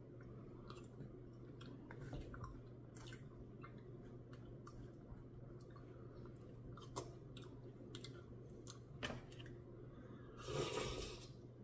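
A person chewing a mouthful of gummy worms and Blizzard ice cream, with faint scattered wet clicks and smacks. A brief louder noise near the end lasts under a second.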